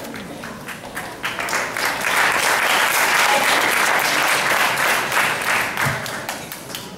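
Audience applause: many hands clapping, swelling about a second in and dying away near the end.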